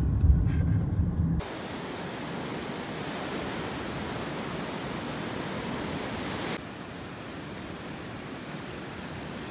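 Low car-cabin rumble for about a second and a half, then it cuts suddenly to the steady rush of ocean surf, which drops a little in level after another cut near the seven-second mark.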